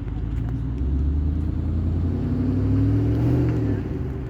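A motor vehicle engine running steadily, its pitch rising slightly about halfway through and easing off near the end.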